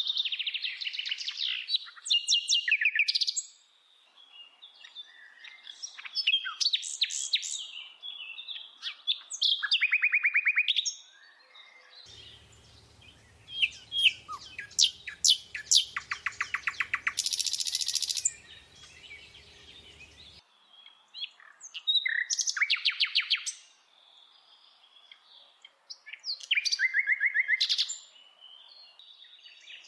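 A bird singing: phrases of quick, high chirps and fast trills, each lasting one to three seconds, with short pauses between them.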